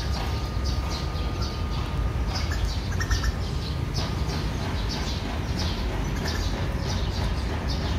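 Small birds chirping, many short high chirps a few times a second, over a steady low rumble.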